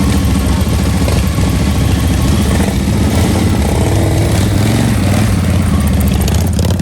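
A vehicle engine, or several, running steadily close by with a low, even tone, with slight wavers in pitch in the middle.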